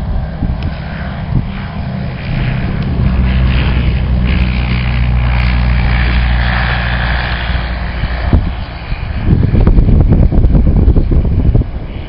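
Propeller aircraft engine running, a steady low hum with a higher whine over it, growing louder and rougher from about nine seconds in.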